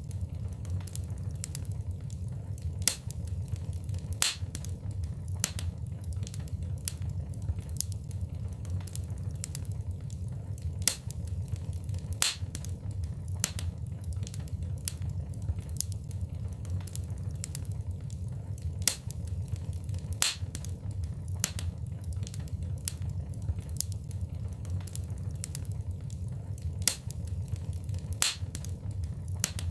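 Wood fire burning in a fireplace: a steady low rumble of flames with irregular sharp crackles and pops from the burning logs, several a second, and a few louder snaps.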